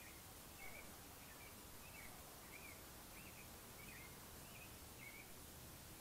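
Faint bird calls: a steady series of short chirps, about two a second, that stops about five seconds in.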